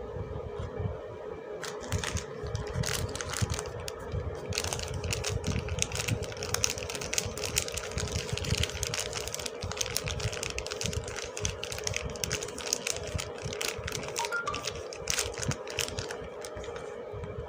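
Soap packaging being handled and unwrapped: rapid irregular crinkling, crackling and light clicks, starting about two seconds in and dying away near the end, over a steady low hum.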